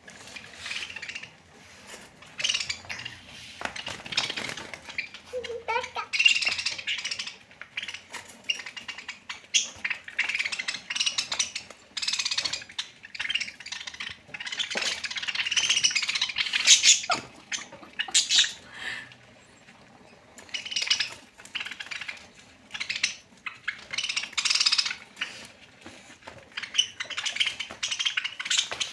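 Pet parrots squabbling over food, giving harsh squawks and screeches in repeated bursts with short pauses between them. There is a brief rising call about five seconds in.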